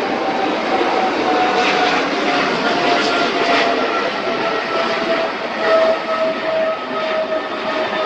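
Boeing 777 freighter's twin GE90 turbofan engines passing: a steady jet rush with an engine whine that slowly falls in pitch.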